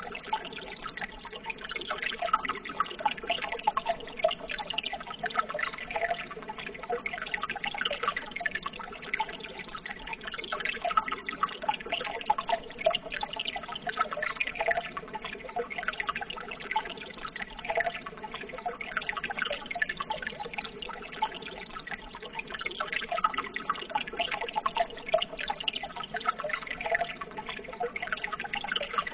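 Running water, a steady trickle and burble dense with small splashes and drips, continuing without a break.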